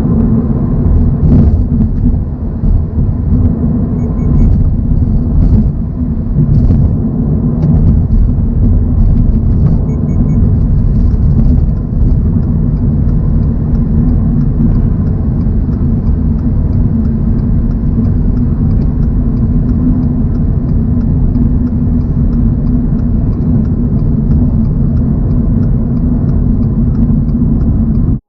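2024 Toyota GR86's 2.4-litre flat-four engine and tyre rumble at steady expressway cruise, with a few brief knocks in the first several seconds.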